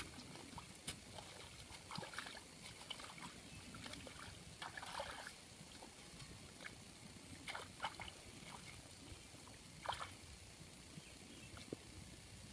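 Faint splashing and sloshing of water, with scattered small clicks and knocks.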